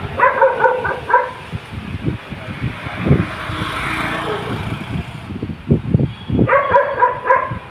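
A dog barking in two quick runs of about four barks each, one at the start and one near the end, over a steady background hiss.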